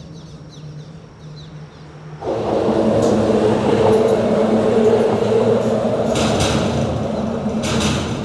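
A vehicle crossing a bridge: a loud rumble starts suddenly about two seconds in and runs steadily, with two short rattles near the end. Small birds chirp before the rumble starts.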